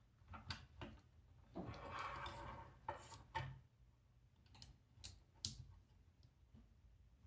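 Faint handling noises of small plastic robot parts and cables: scattered light clicks and taps, with a brief rustle about two seconds in. They come as wire connectors are worked onto the robot's servo motors.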